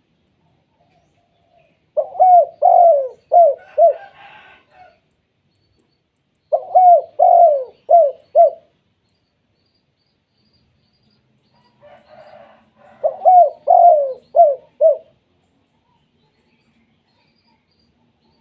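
Spotted dove cooing: three phrases of about five quick, bent coo notes each, several seconds apart.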